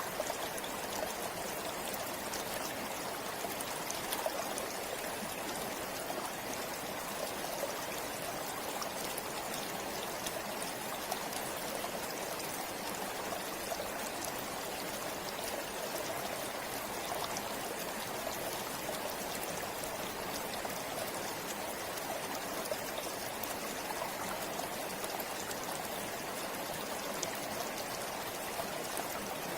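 Forest river or stream flowing steadily over stones, a continuous rushing and babbling with fine splashes and drips.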